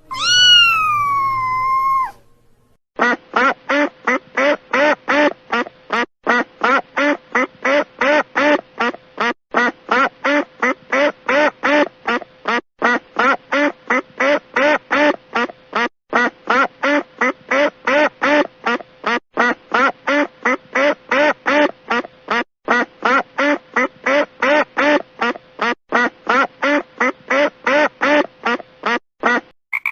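Duck quacking over and over in a steady, even rhythm of about three quacks a second, after a single drawn-out call at the start that falls in pitch.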